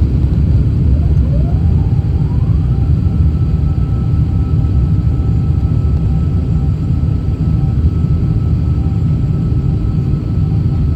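Jet airliner engines running: a steady low rumble, with a whine that rises about two seconds in and then holds level.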